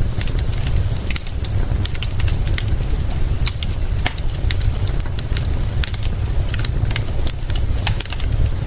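Wood fire crackling, with many sharp irregular pops and snaps over a steady low rumble and soft hiss.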